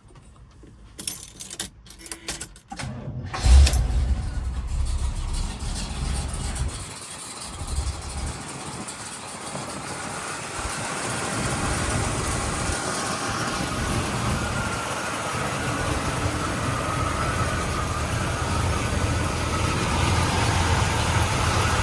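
1971 Oldsmobile 442 W-30's 455 V8 being started: a few clicks, then the engine fires with a loud burst about three and a half seconds in and settles into a steady idle.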